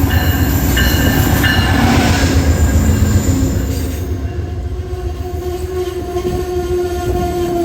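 Amtrak Downeaster passenger train pulling into the station: heavy, loud locomotive rumble that eases off after about four seconds, with steady high pitched tones sounding over it.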